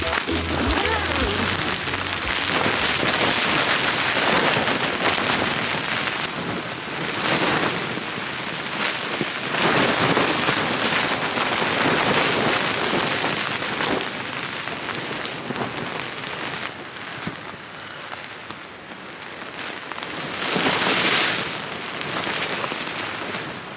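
Strong gusting wind, a rushing noise that swells and dies away in several surges, the biggest about twenty seconds in.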